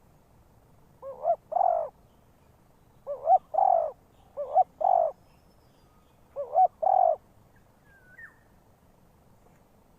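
Spotted dove cooing: four calls about a second and a half apart, each a short double coo followed by a longer, drawn-out coo. A faint short chirp near the end.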